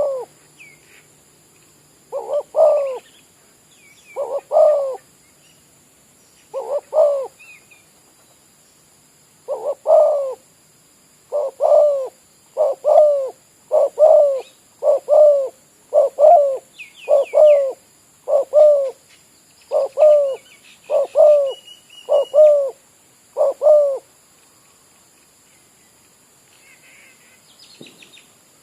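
Spotted dove cooing over and over, its phrases a couple of seconds apart at first and then coming about once a second, stopping about 24 seconds in. Faint high chirps of small birds in the background.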